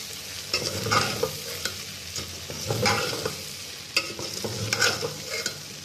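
Chopped okra sizzling as it fries in oil in a metal pot, stirred with a metal spoon that scrapes and clatters against the pot about once a second.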